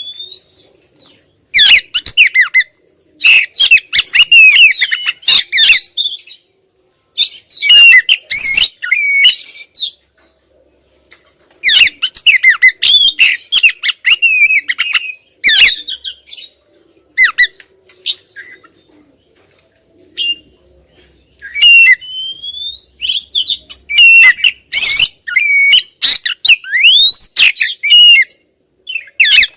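Female oriental magpie-robin (kacer) calling insistently, in repeated loud bursts of rapid, harsh chattering and quick gliding whistles, with short pauses between bursts.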